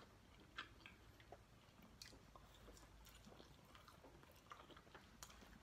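Faint chewing of pizza, with soft, irregular mouth clicks and smacks.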